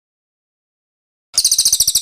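Dead silence, then about a second and a quarter in a cililin bird's rolling song starts abruptly: a rapid, high-pitched trill of a dozen or so notes a second.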